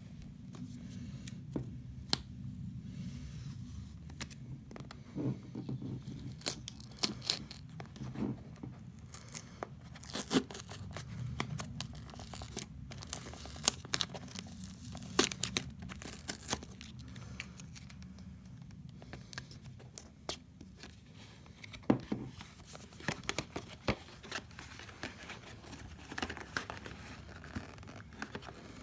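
Product packaging being opened by hand: tearing and crinkling of wrapping and cardboard, with many scattered sharp clicks and taps of handling over a steady low hum.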